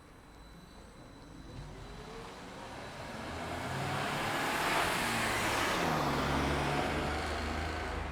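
MAN Lion's City hybrid city bus heard from on board as it accelerates: a whine rises in pitch over a few seconds while the drive and road noise build, then levels off into a steady cruise.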